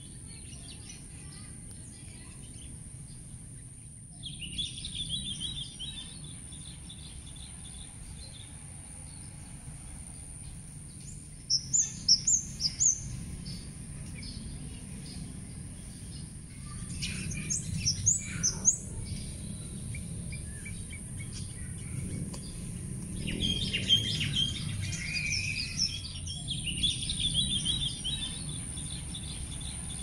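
Birds chirping and trilling in several short bouts, the loudest a quick run of sharp chirps about twelve seconds in, over a steady high hiss and a low background rumble.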